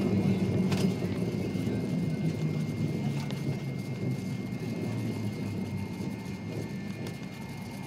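Cabin noise of an MD-88 airliner on the runway: a steady low rumble that gradually fades as the plane slows, with a few sharp rattles.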